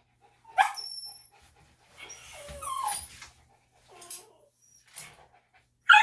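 A dog barking in short sharp yaps with a whine in between, several times over; the loudest yap comes near the end. She is an impatient dog waiting to be picked up.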